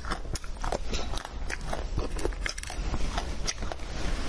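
Close-miked biting and chewing of a small candy: irregular sharp, crunchy crackles, several a second.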